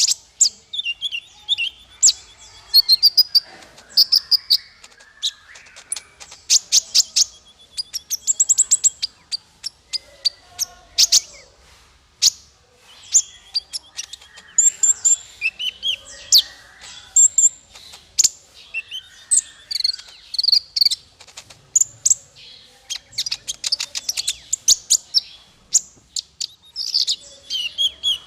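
Small songbird singing a fast, high-pitched stream of chips, trills and quick rising and falling whistles, in bursts with short gaps. This is masteran song, played to train small fighter songbirds.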